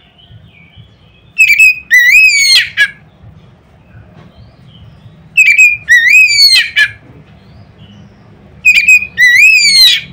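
Oriental magpie-robin (kacer) singing loud whistled phrases three times, each a quick run of rising and falling notes, a few seconds apart: the loud song of the kind used to set other magpie-robins singing.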